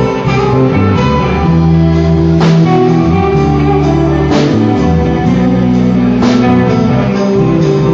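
A band playing an instrumental passage led by guitar, with a drum kit and cymbal crashes about every two seconds.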